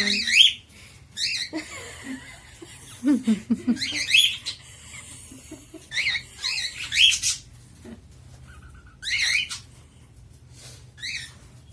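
Cockatiel calling in short chirps that come in bursts every second or two, with quieter gaps between them.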